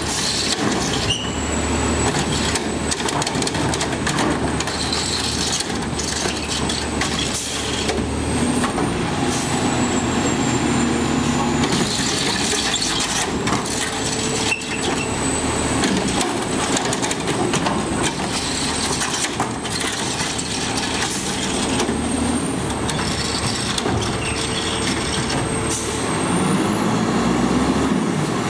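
Refuse truck at work: diesel engine running with a steady high whine that slides a little in pitch, and many clanks and knocks from the lift and body.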